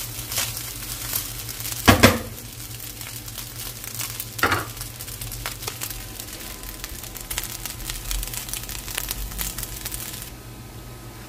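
Rice frying in a pan, sizzling and crackling as it is stirred, with two louder clatters about two and four and a half seconds in. The sizzle drops away near the end.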